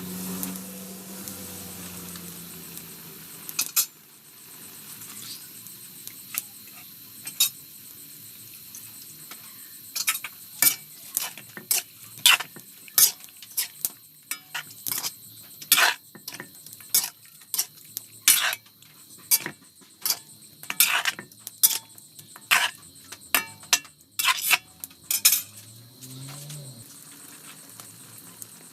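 Metal spoon or spatula clinking and scraping against a cooking pan during stirring: irregular sharp clinks, fewer at first and coming thick and fast in the middle and latter part, over a steady high-pitched background tone.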